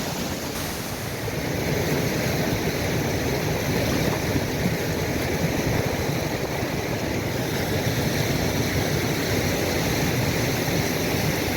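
Steady rush of a rain-swollen river and waterfalls in a ravine, an even, unbroken roar of water.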